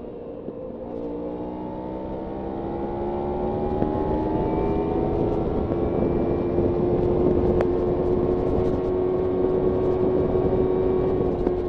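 Kawasaki Ninja 300's parallel-twin engine under way. The engine note jumps about a second in, as on a gear change, then climbs slowly and steadily as the bike accelerates, holds, and eases off slightly near the end, over a low rush of wind and road noise.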